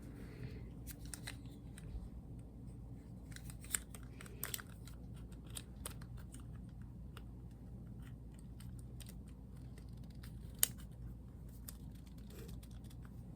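Scattered light clicks and taps of small plastic pet-clipper parts, such as guide combs, being handled, with a few sharper clicks, the sharpest about three-quarters of the way through.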